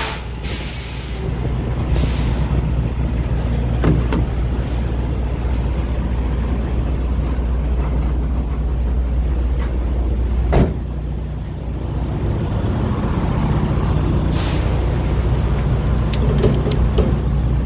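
Steady low rumble of idling diesel trucks at a fuel island, broken by several short air hisses typical of air brakes and a sharp clunk about ten seconds in.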